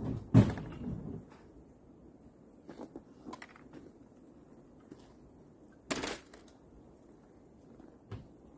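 A few sharp knocks and thumps: a loud one about half a second in, another about six seconds in, with fainter clicks between.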